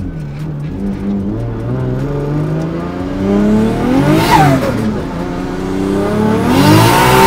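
Turbocharged Nissan RB20 straight-six in a Ford AU Falcon accelerating hard, heard from inside the cabin: the revs climb steadily to a peak about four seconds in, fall sharply at a gear change, then climb again and fall at the next shift near the end, with a burst of hiss at each shift.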